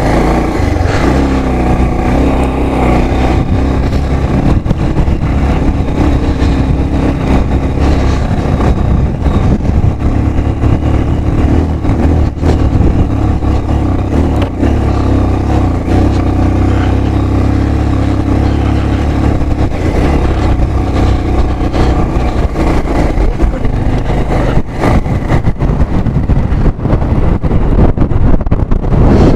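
Motorcycle engine running steadily under way. The low drone weakens about 24 seconds in and the sound becomes more uneven.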